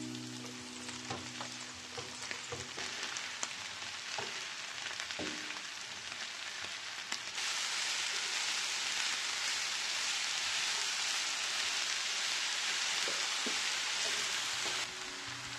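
Mushrooms, onion and red bell pepper sizzling in a frying pan while a wooden spatula stirs them with light scraping clicks. About seven seconds in the sizzle turns louder and denser, dropping back again near the end.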